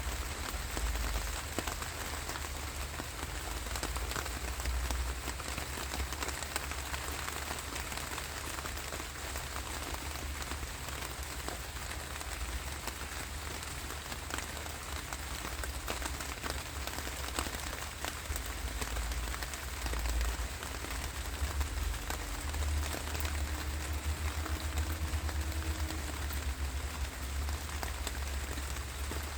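Steady rainfall: an even hiss of rain with many small drop ticks, over a constant low rumble.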